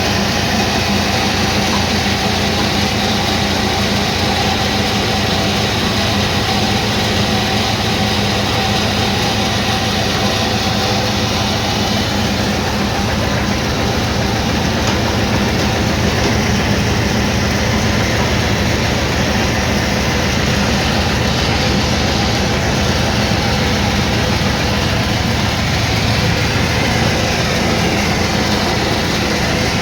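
Sawmill machinery running steadily: a continuous motor hum that holds one pitch, with a faint wavering whine near the end.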